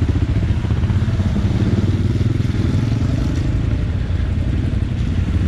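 Adventure motorcycle engine running steadily.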